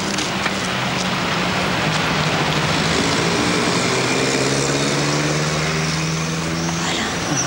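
A car engine running, its low hum clearest from about three seconds in until near the end, over a steady rushing background noise.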